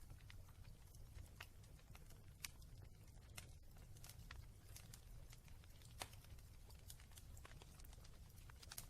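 Wood fire in a fireplace crackling faintly: irregular sharp pops and snaps over a steady low rumble.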